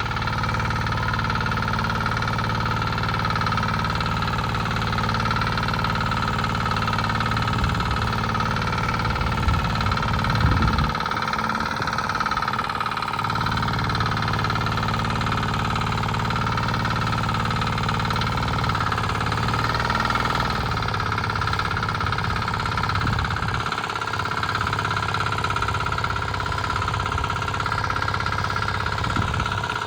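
Power tiller engine running steadily as it hauls a loaded trailer, with a couple of brief louder knocks about ten seconds in.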